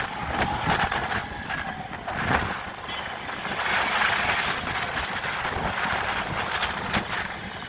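Strong wind rushing and buffeting the microphone, a continuous noisy rush with a fluttering low rumble.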